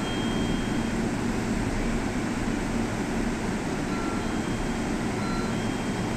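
JR 313-series electric train standing at the platform, its onboard equipment running with a steady, even hum.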